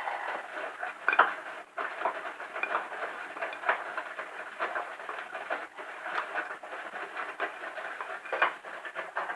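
Bosch Serie 4 machine running with an uneven clatter of rapid clicks and knocks, a few louder knocks standing out. The owner suspects a slack drive belt.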